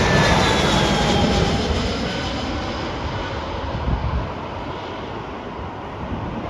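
Jet airliner coming in to land, passing close by: steady engine noise with a whine that falls in pitch as the aircraft goes past, fading steadily away.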